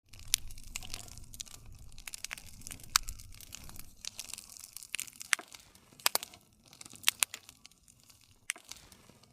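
Wood fire crackling: a steady scatter of sharp pops and snaps over a low rumble of flame, with the loudest snap about three seconds in.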